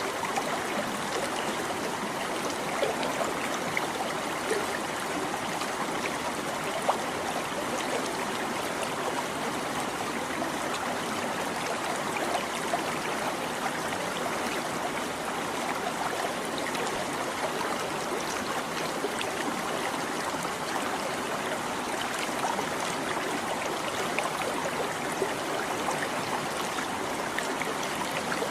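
A small stream babbling over stones: steady running water with frequent little splashes and gurgles.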